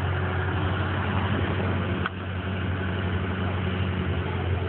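Ford SUV's engine running, heard inside the cabin as a steady low drone with road and cabin noise. A single sharp click comes about two seconds in.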